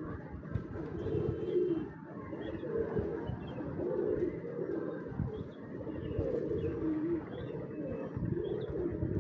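A flock of domestic pigeons cooing: low, warbling coos that overlap and repeat every second or so.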